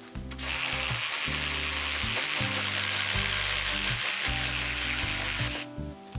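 Makita 18V cordless reciprocating saw with a bamboo-cutting blade sawing through bamboo. It runs steadily with a high whine for about five seconds, starting just after the beginning and stopping shortly before the end.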